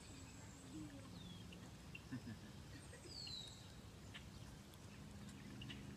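Faint outdoor ambience with a bird's short, downward-slurred high call, heard clearly once about three seconds in and more faintly about a second in, over a low steady hum and a few soft ticks.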